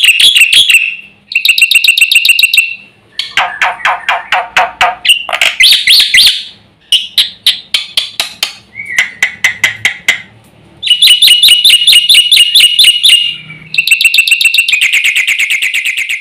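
Black-winged myna (jalak putih) singing loud, rapid phrases of repeated notes, switching to a new pattern every second or two, including a lower-pitched stretch about three seconds in. The varied song is full of mimicked phrases ('full isian').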